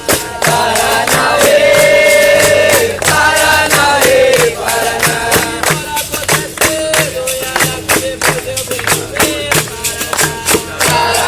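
Capoeira music: a group of voices singing a chant over a steady, quick beat of berimbau and hand percussion.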